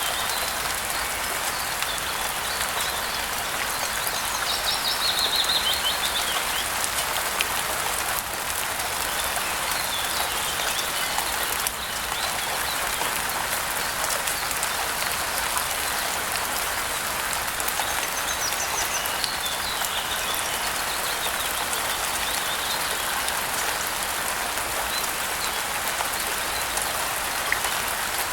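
Steady rain falling, with birds chirping now and then: a short run of rapid chirps about five seconds in and more about two-thirds of the way through.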